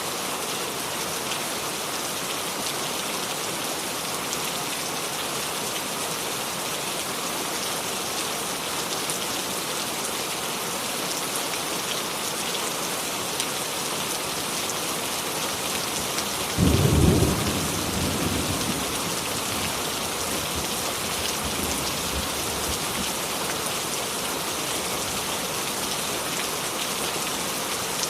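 Steady rain falling, an even hiss. About two-thirds of the way in, a sudden deep boom of thunder breaks out and rumbles away over a few seconds.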